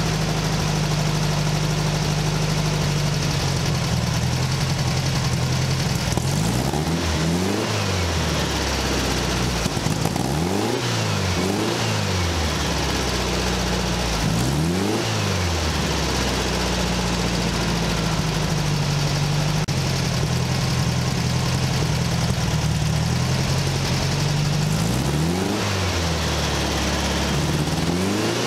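A 1600cc dual-port air-cooled VW flat-four engine, running on a home-built electronic throttle-body fuel injection system, idles steadily. Its throttle is blipped by hand about six times, and each time the engine revs up and drops straight back to idle.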